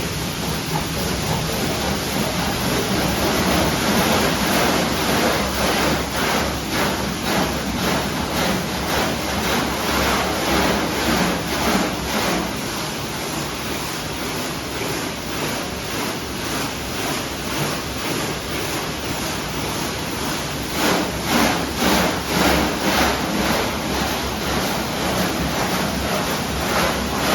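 Automatic car wash spraying water over a pickup truck: a loud, steady rush of water that pulses about twice a second, most strongly about three quarters of the way through.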